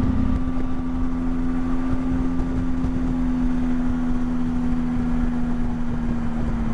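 Motorcycle engine running at a steady cruise, recorded on board, its even engine note holding pitch over a low rumble of wind.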